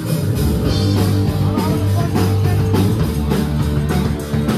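Live rock band playing: electric guitar, bass and a drum kit with a steady beat.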